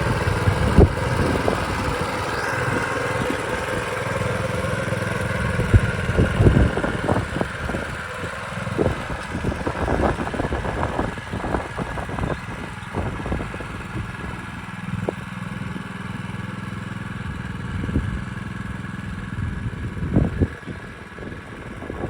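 Small Honda engine on a David Bradley model 135 walk-behind tractor running steadily under load while plowing, with irregular clanks and knocks from the tractor and plow throughout.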